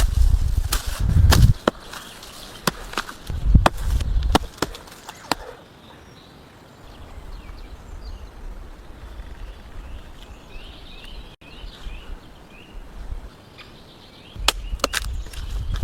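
Irregular sharp knocks, each with a heavy low thud, in a loose run over the first five seconds and again near the end. In the quieter middle stretch, birds chirp faintly.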